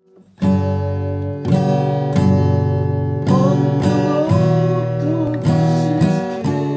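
Acoustic guitar strumming chords, starting about half a second in, with a fresh strum or chord change roughly every second.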